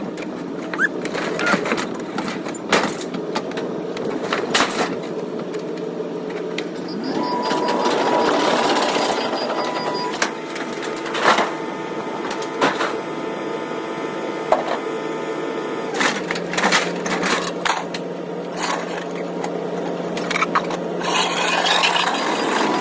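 An engine running steadily throughout, with scattered sharp knocks and clanks over it.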